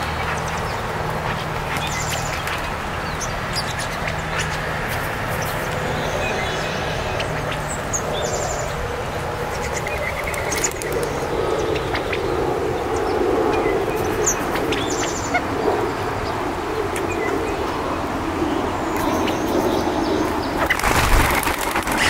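Small birds chirping and calling over a steady background rumble; near the end comes a short burst of wing whirring as the California quail fly off the picnic table.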